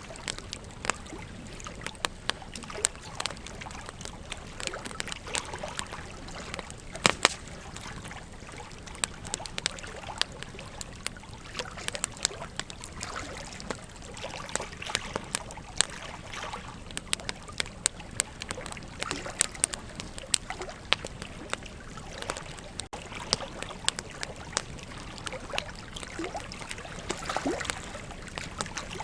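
Wood campfire crackling, with frequent irregular sharp pops and snaps, over the steady rush of a flowing river.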